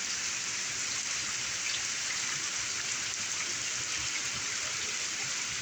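Steady heavy rain pouring down, an even hiss of drops hitting surfaces.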